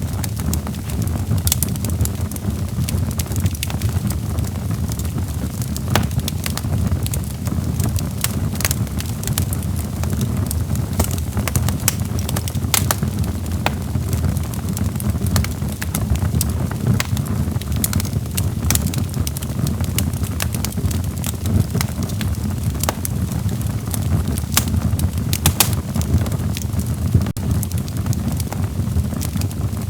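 Log fire burning in a fireplace: a steady low rumble of flames with frequent sharp crackles and pops at irregular intervals.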